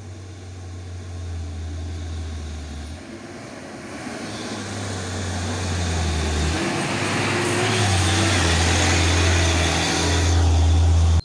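Diesel engine of a loaded coal truck labouring uphill at full power, growing steadily louder as it approaches.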